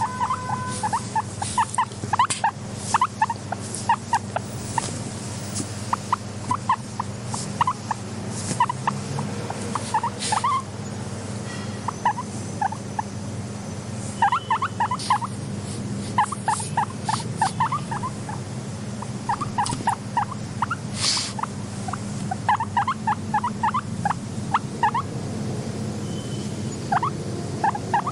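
Guinea pig squeaking in quick runs of short, high chirps, over a steady low hum.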